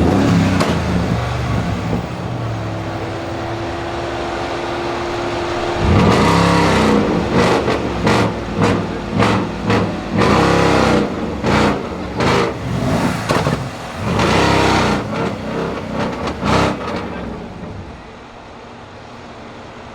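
Mercedes-Benz E500 W212 4.7-litre twin-turbo V8 with a custom downpipe and exhaust, running steadily, then revved in a quick series of about ten throttle blips, each rising and falling in pitch, before dropping back to a quieter idle near the end.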